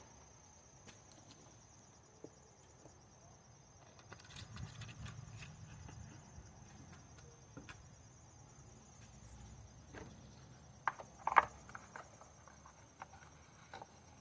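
Quiet handling noise: scattered light clicks and knocks, with a short cluster of sharper knocks about eleven seconds in, over a steady high-pitched insect trill.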